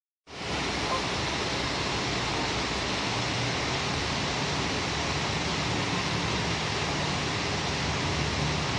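Waterfall: a steady rush of falling water that starts abruptly just after the beginning.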